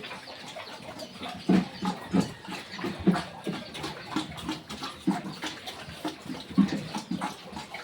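Pigs grunting while they feed: a steady run of short, low grunts, several a second.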